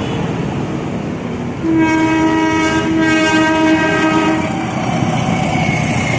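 Train running by, sounding its horn for about three seconds beginning near two seconds in; another horn note starts near the end.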